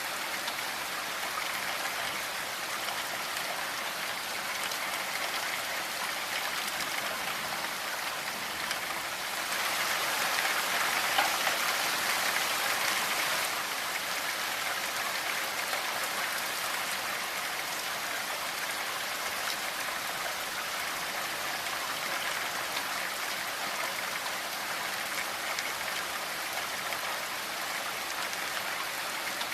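Steady rainfall, a dense even hiss of drops on a surface, with a stretch of heavier rain for a few seconds about ten seconds in.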